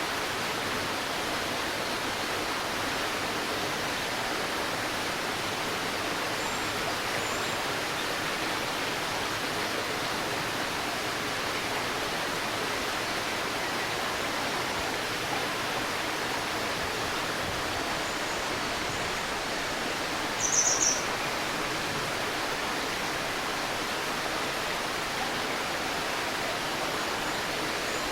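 Shallow river babbling steadily, with a brief cluster of high bird chirps about two-thirds of the way through.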